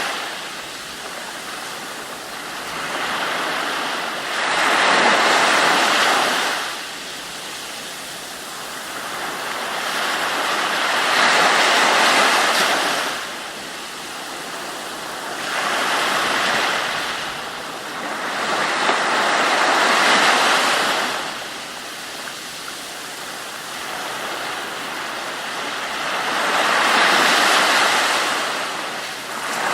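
Ocean waves breaking and washing in, the rush swelling and falling away about five times, every four to seven seconds.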